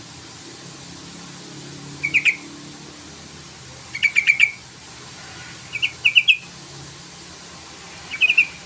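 Yellow-vented bulbul (trucukan) calling: four short bursts of quick bubbly notes, about two seconds apart, over a faint low hum.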